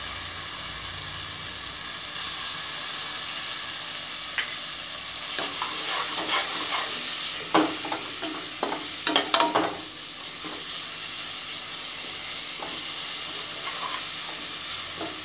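Ginger-garlic paste and onions sizzling in hot oil in an aluminium pressure-cooker pot, a steady frying hiss. Midway through, a steel ladle stirring scrapes and clinks against the pot in two short spells.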